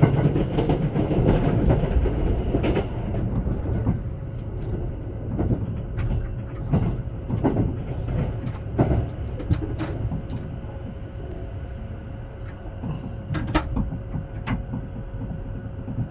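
Haruka airport express train running, heard from inside the carriage: a steady low rumble of wheels on track with a faint steady whine, broken by irregular clicks and knocks, a little louder in the first few seconds.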